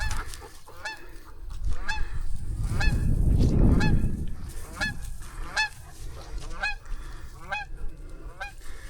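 A goose honking in a steady series of short calls, about two a second, with a low rumbling noise swelling and fading around three to four seconds in.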